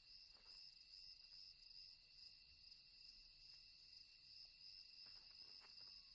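Faint, steady high-pitched trilling of crickets in a night chorus, with a few soft clicks.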